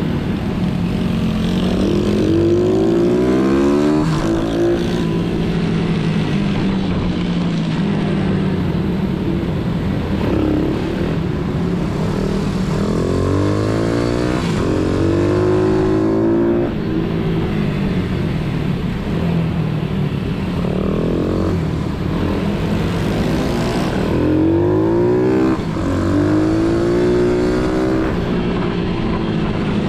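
Pit bike engines running hard on a track: small single-cylinder motors revving up and down through the gears, with repeated rising runs of revs in groups while another engine holds a steadier note.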